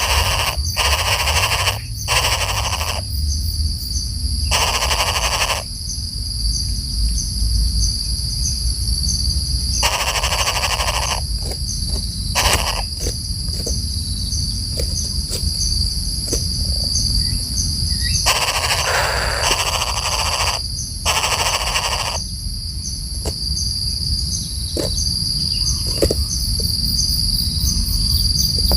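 Insects trilling steadily in a high, fast-pulsing chorus over a low rumble, broken by several bursts of noise lasting a second or two and a few scattered clicks.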